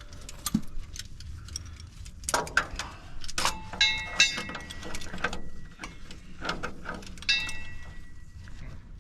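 Metal hand tools and hardware clinking and knocking in irregular clicks, with a few sharper metallic clanks that ring briefly, about four seconds in and again near seven seconds.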